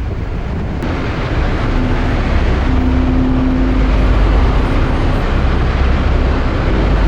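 Motorcycle engine running at road speed with wind rush; the engine note strengthens about a second and a half in.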